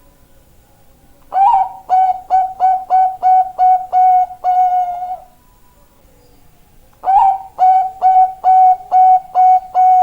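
Zebra dove (Thai 'bangkok' perkutut) singing: two cooing phrases, each an opening note followed by a quick string of short, evenly pitched coos and a longer closing coo.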